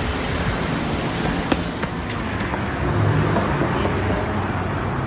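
Steady outdoor traffic noise, with a vehicle engine's low hum growing louder about three seconds in.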